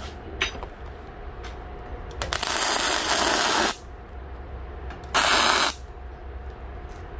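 Two bursts of steady hissing, a longer one of about a second and a half starting about two seconds in and a short one about five seconds in, with a few light clicks around them, from work on a steel stove lid.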